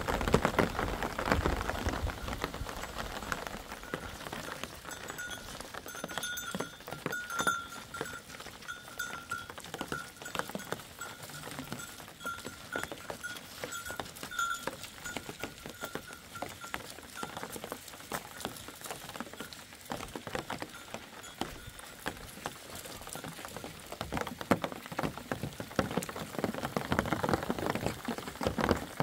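Steady rain pattering on rocky ground, dense with the small ticks of single drops. Through the middle, for about ten seconds, a faint, thin, wavering high tone sounds over the rain.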